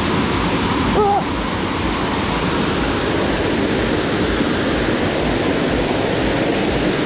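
Waterfall rushing: a loud, steady roar of falling water. About a second in there is a brief vocal call.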